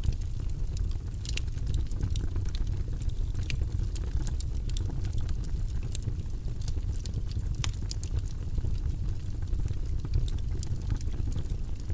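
Wood fire burning in a fireplace, crackling and popping at irregular moments over a low steady rumble of the flames.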